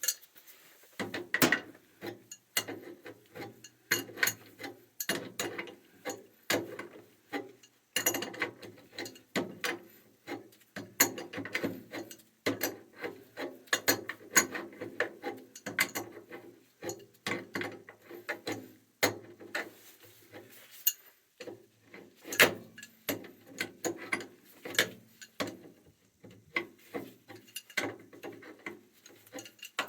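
Ratchet wrench clicking in quick runs of ticks, over and over, as it is swung back and forth to turn a fastener.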